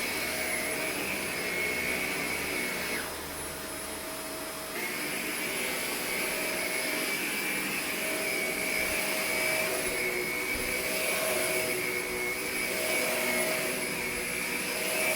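Corded vacuum cleaner running steadily with a high whine. About three seconds in, the whine and the level drop for nearly two seconds, then come back.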